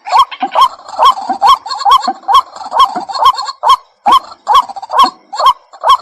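White-breasted waterhen calling: a rapid, even series of short hooked notes, about two a second, the loud repetitive call used as a bird-trapping lure.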